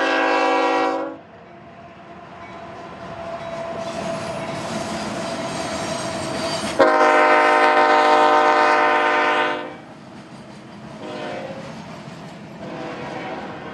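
Union Pacific diesel locomotives running light, sounding a multi-chime air horn: a long blast ending about a second in, another long blast around seven seconds in, a short one near eleven seconds and a fainter one starting near the end, the long-long-short-long grade-crossing signal. Between blasts the locomotives' engines and wheels are heard, growing louder as they approach.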